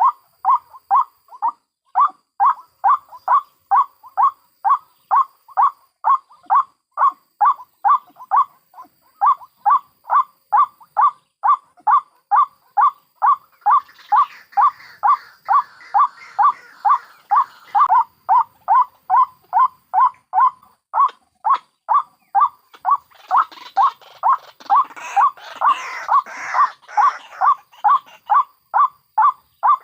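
White-breasted waterhens calling: one bird repeats a short note about two to three times a second without a break. Two stretches of harsher, scratchy chattering join it, one in the middle and one near the end.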